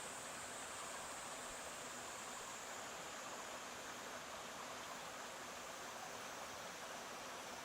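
A stream flowing steadily, an even rush of water with a thin high hiss above it.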